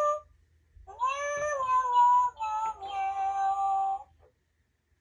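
Pets Alive Smitten Kittens toy cat playing its recorded cat sounds through a small speaker after its paw button is pressed: a pitched, sing-song meowing in a few notes, the last one held steady, stopping about four seconds in.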